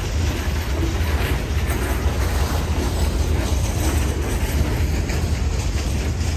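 Freight train hopper cars rolling past: a steady low rumble of steel wheels on rail, with faint repeated clicks of wheels passing over rail joints.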